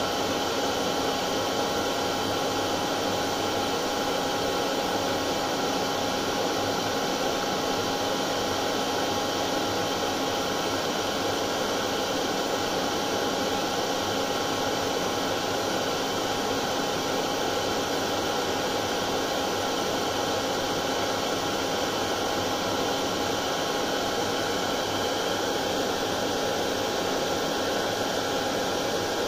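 Hair dryer running steadily: an even rush of air with a steady motor whine, unchanging throughout.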